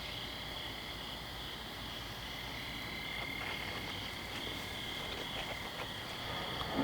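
Steady nighttime chorus of calling frogs, a continuous high-pitched drone.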